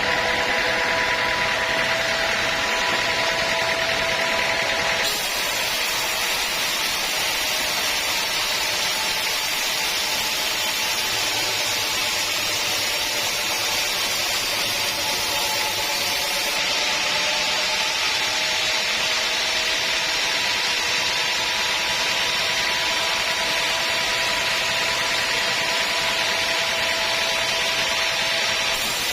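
Sawmill saw running steadily through a teak log, a continuous hiss with a steady whine. The tone shifts abruptly about five seconds in and again near the end.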